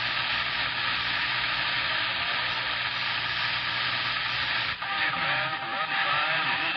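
CB radio receiver hissing with open-channel static between transmissions. About five seconds in, a faint, garbled voice and a steady whistle come through under the static.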